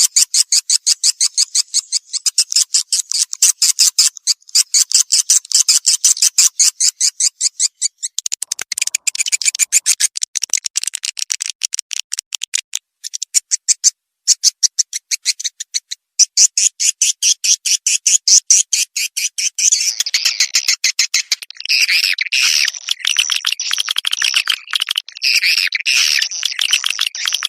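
Recorded swiftlet calls, the kind played to lure swiftlets to a nesting house: fast trains of high clicking chirps, several a second. About two-thirds of the way through they thicken into a denser, continuous twittering.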